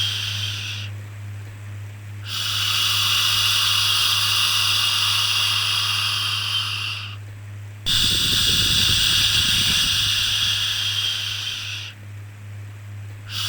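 Long 'shhh' shushing sounds for soothing a baby, repeating: each one lasts about four seconds, with a short break of about a second between them. A steady low hum runs underneath.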